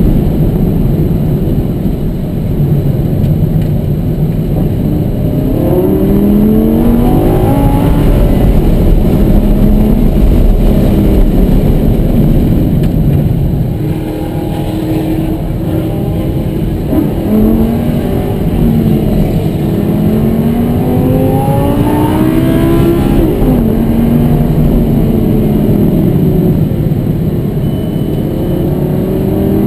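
Lamborghini Gallardo's V10 engine under hard acceleration on a track, heard from inside the cabin. The revs climb in several long rising sweeps and fall back between them.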